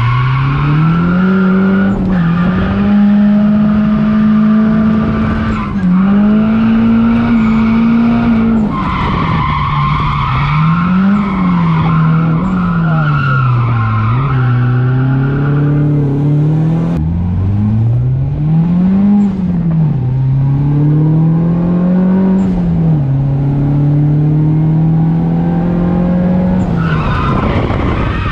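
Nissan 240SX's turbocharged SR20DET four-cylinder engine revving up and down again and again through a drift run, heard from inside the cabin, with tyres squealing and skidding.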